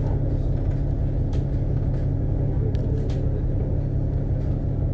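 Double-decker bus cruising at steady speed on an expressway, heard from inside the cabin: a steady low rumble of engine and road noise, with a few faint brief rattles.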